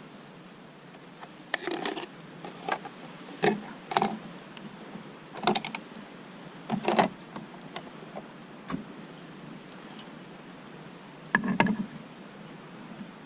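Irregular handling noise: about ten short, sharp knocks and clicks at uneven intervals over a faint steady background, with the loudest cluster near the end.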